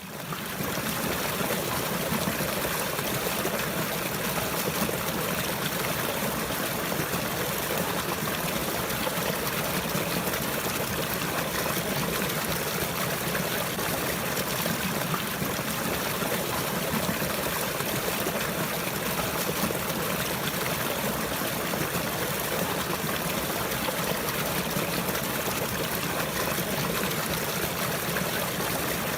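Running water trickling steadily, like a small stream, fading in at the very start.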